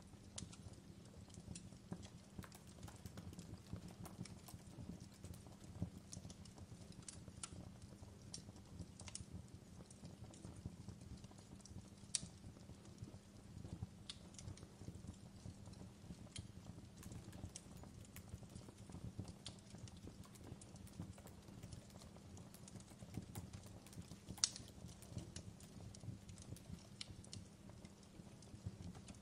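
Wood fire in a fireplace crackling: faint, irregular sharp pops and snaps over a low steady rumble, with two louder pops, one near the middle and one towards the end.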